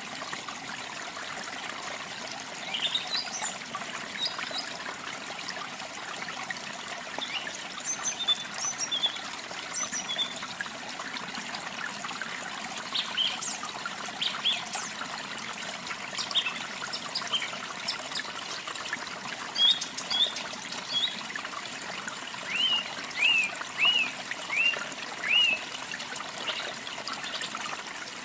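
Steady trickle of running water with small birds chirping over it: scattered single calls from about three seconds in, and a run of five quick, similar chirps near the end.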